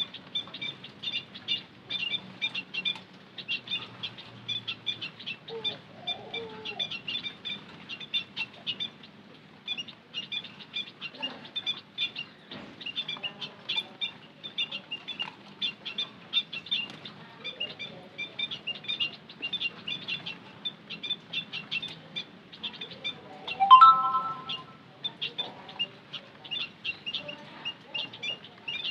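A flock of white-headed munias chirping constantly with short, high twittering notes. Near the end a single louder, lower call stands out.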